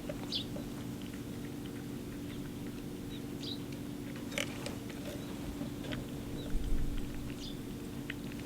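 A cat eating wet food from a can, making soft, scattered chewing and licking clicks.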